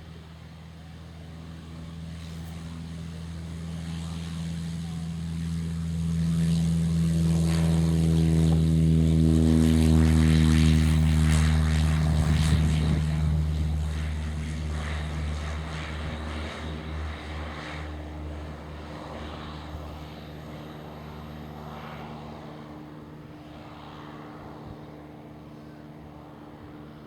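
Piper Cherokee light single-engine propeller plane at takeoff power, growing louder as it approaches, passing close about ten seconds in with a falling drop in pitch, then fading as it departs and climbs away.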